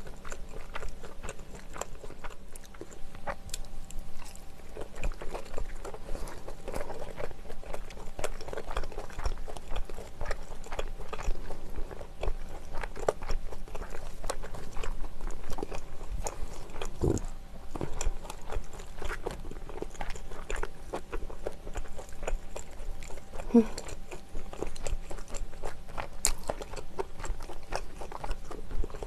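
Close-miked chewing of a mala stir-fry with Chinese glass noodles: many small, irregular mouth clicks and chewing sounds, with a single louder low thump about seventeen seconds in.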